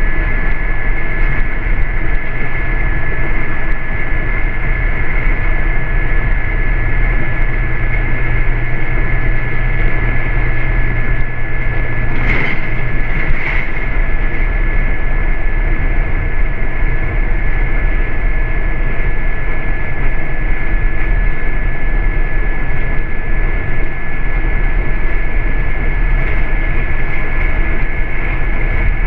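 Inside a New York City MTA transit bus under way: the steady rumble of the drive and road, with a constant high whine on top. About halfway through come two short bursts of hiss.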